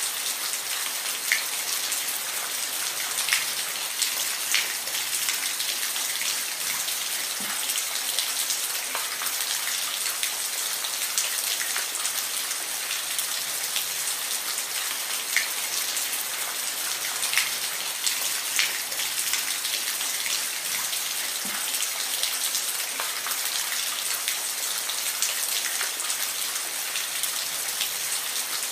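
Steady rain falling, an even hiss with scattered louder individual drops ticking on a surface every second or two.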